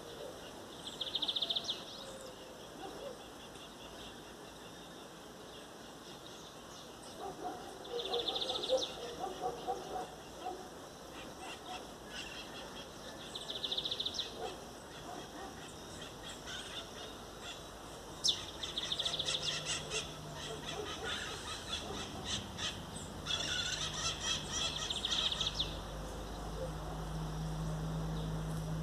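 Birds calling outdoors in repeated high, rapidly pulsed trills of a second or two each, with lower chattering calls between them. A steady low hum comes in and grows over the last few seconds.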